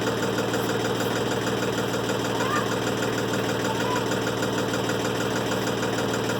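Timberking 1400 sawmill's engine running steadily at an even speed.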